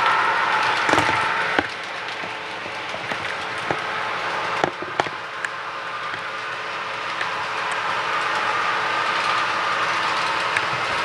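HO scale model train running on the layout, its DCC sound decoder playing a steady locomotive running sound, with a few sharp clicks in the first half.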